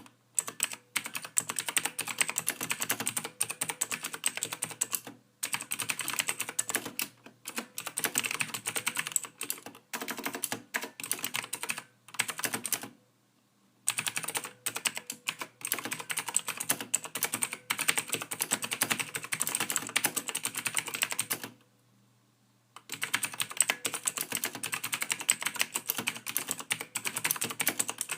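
Continuous typing on a computer keyboard: fast runs of soft key clicks with brief pauses about 5, 13 and 22 seconds in.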